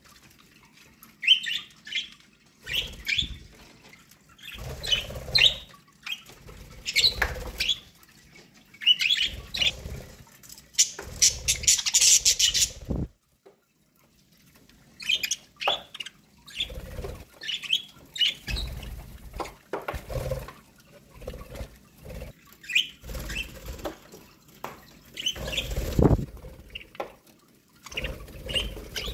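Pet budgerigars chirping in short, repeated bursts, with wing fluttering and low thumps under some of the calls. The chirping breaks off for about a second near the middle.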